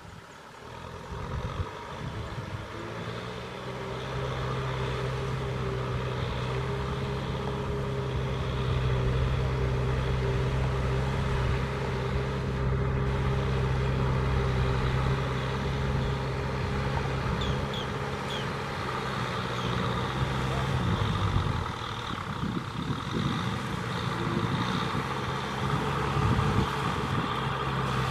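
Kubota M6040SU tractor's diesel engine running steadily under load. Its note grows louder over the first few seconds and dips briefly about three-quarters of the way through.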